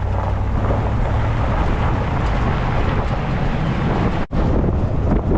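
Loud, steady wind buffeting the microphone, with a heavy low rumble. It breaks off for an instant about four seconds in.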